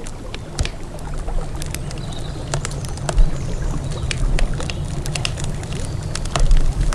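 Wood campfire crackling, with many irregular sharp pops and snaps, over a steady low rumble of the river.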